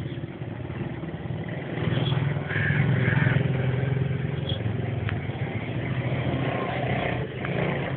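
A motor engine running, its low rumble growing louder about two seconds in.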